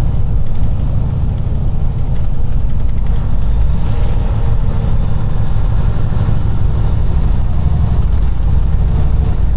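Semi-truck diesel engine and road noise heard inside the cab while driving: a steady, loud low rumble.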